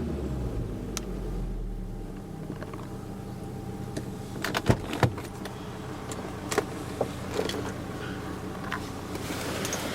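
Volvo V70 R's turbocharged five-cylinder engine idling steadily through a stainless-steel cat-back exhaust. Several sharp clicks come through from about halfway.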